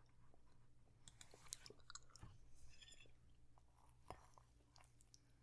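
Faint chewing of a mouthful of falafel bowl, soft and irregular, with a few small clicks.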